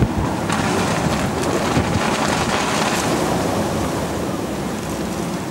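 Blizzard wind blowing hard across the microphone, a steady rush of noise that eases off near the end.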